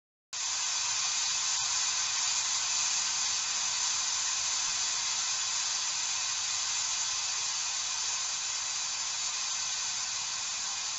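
Steady electronic hiss like static, cutting in abruptly from dead silence a moment in and holding even throughout.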